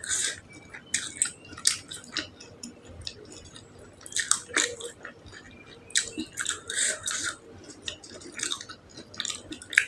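Close-miked mouth sounds of someone eating: irregular wet chewing and biting smacks, bunched in clusters every second or two.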